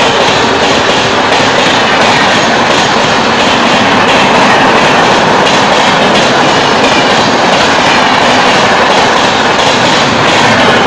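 Diesel-hauled express train passing at high speed close by: a loud, steady rushing roar of wheels and coaches on the track.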